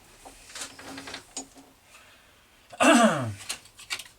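Light clicks and clinks of small metal workshop tools being handled. About three seconds in comes one louder, short sound whose pitch falls.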